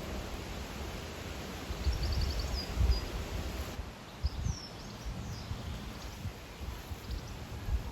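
Outdoor ambience: a low, uneven rumble with occasional knocks, and a few short high bird chirps about two seconds in and again around four to five seconds in.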